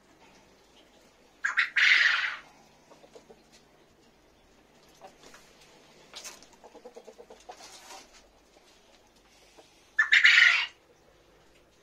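Birds calling: two loud, harsh squawks, one about a second and a half in and one near the end, with softer rapid calls in between.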